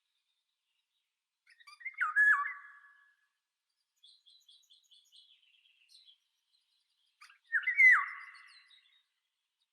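Birds calling: two loud whistled calls, each stepping sharply down in pitch, about five seconds apart, with a faint run of quick high chirps between them.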